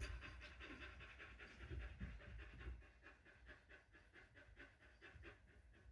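A dog panting quickly and evenly, faint.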